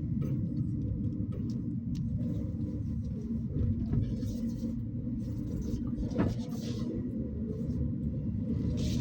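Steady low rumble of a Toyota Axio driving in city traffic, heard from inside the car, with patches of hiss coming and going and a sharp click about six seconds in.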